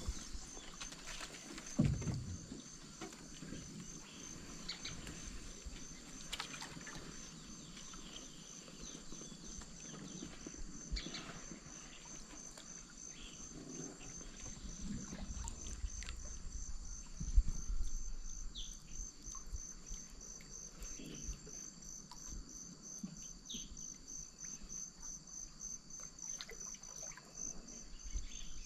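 Rainforest insect chorus: a steady, evenly pulsing high trill throughout, with scattered short calls above it. Low thuds and water sounds from the paddled canoe come through now and then, the loudest about 2 s and 17 s in.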